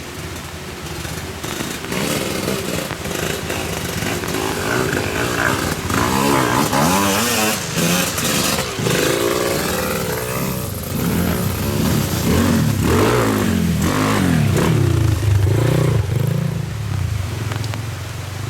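Motorcycle engines revving, their pitch rising and falling again and again, loudest through the middle and toward the end.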